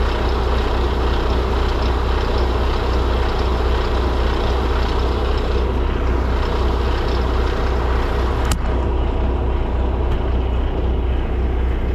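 Semi truck's diesel engine running with a steady low rumble. A single sharp click about eight and a half seconds in.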